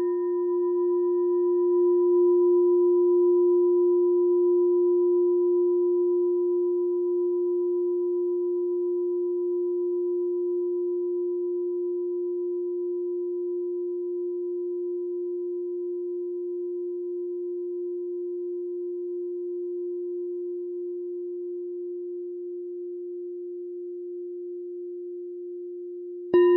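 Meditation bell ringing out after a strike: one long, low, steady tone with fainter higher overtones, slowly dying away, then struck again near the end.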